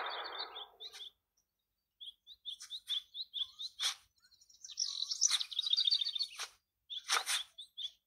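Small birds chirping: a string of short high chirps repeating about three times a second, then a busier twittering stretch about five seconds in, with a few short sharp sounds among them. In the first second the tail of a loud noisy burst fades out.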